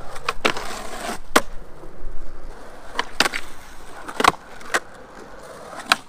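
Skateboard riding on concrete on steel-baseplate suspension trucks: wheels rolling, broken by about eight sharp clacks of the board and trucks. The rolling fades in the second half.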